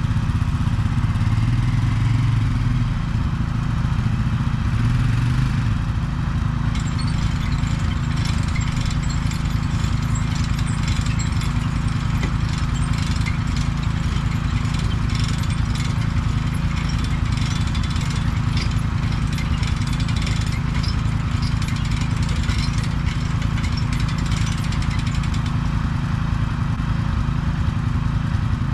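Mini excavator's engine running steadily, with a busy stretch of clattering and scraping from about six seconds in until shortly before the end as the machine works in dirt.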